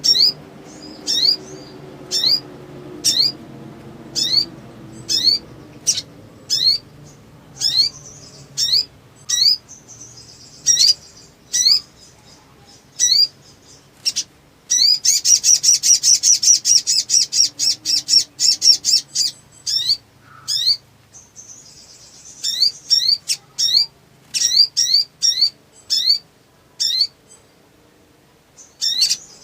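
Sunbird (sogon) calling: a run of short, sharp rising chirps about one a second, breaking into a fast, dense chattering trill near the middle before the single chirps resume.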